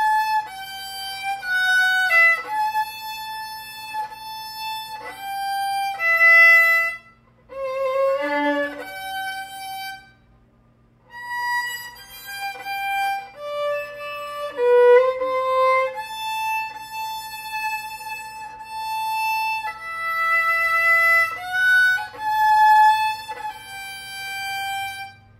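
A 3/4-size violin played solo: a slow melody of held bowed notes, with two short breaks. It is played by an out-of-practice player relearning the instrument. A faint steady hum sits underneath.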